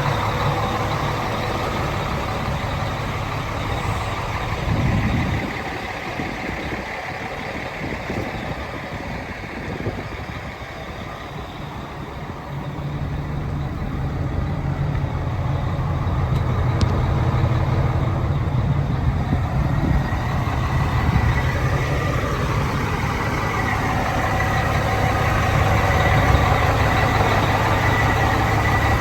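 Cat 3176 inline-six diesel engine of a 1996 Peterbilt 377 truck running with a steady low drone. The drone drops away for several seconds a few seconds in, then comes back stronger and slightly louder.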